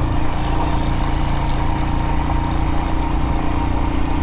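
Royal Enfield Himalayan's single-cylinder engine running steadily while riding, with no change in pitch.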